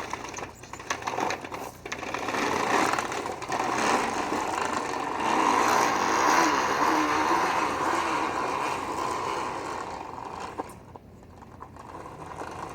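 A bike being ridden in a drift attempt: a steady, rapid mechanical whirring that grows louder, then fades and drops away after about ten seconds.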